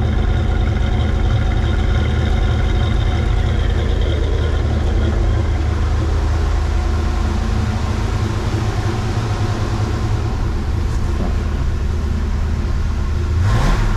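1966 Ford Mustang Fastback's 289 V8 idling steadily through its exhaust a minute or so after a cold start, an even low rumble. There is a brief swell in the sound near the end.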